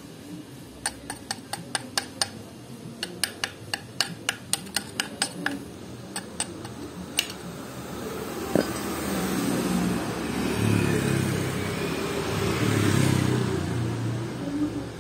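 Quick sharp metallic taps on compressor parts, several a second in short runs, then a single knock, followed by a louder rough scraping rumble that swells twice and fades.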